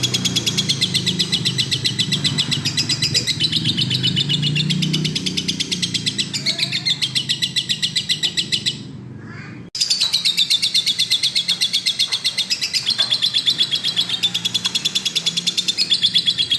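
Lovebird in full song, giving long runs of rapid, high chattering chirps, many a second. The chatter breaks off for about a second midway, then a click, and the run starts again.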